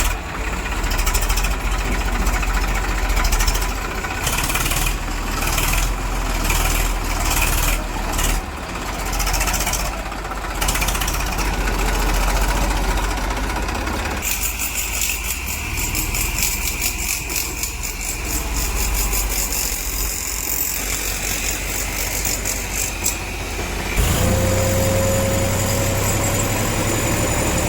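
Heavy diesel machinery engines running with a deep rumble. About two-thirds of the way through the sound changes to a louder, steadier engine note with a slowly rising whine.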